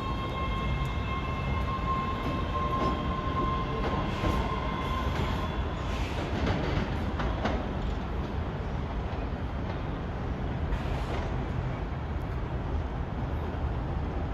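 A train running through the station on its rails: a steady low rumble throughout, with a high steady whine that stops about six seconds in, followed by a short run of clicks from the wheels on the track.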